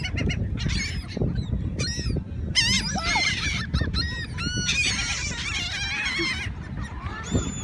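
A flock of seagulls calling over one another, with many short squawking calls that are thickest in the middle few seconds, over a steady low rumble.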